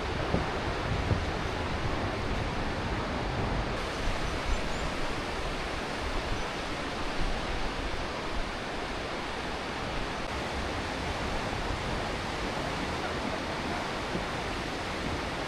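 The Aare River rushing through its rock gorge: a steady, even noise of fast-flowing water.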